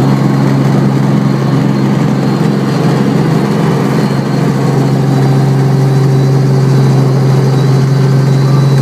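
Helicopter running steadily during landing: a loud, even drone of engine and rotors with a constant low hum.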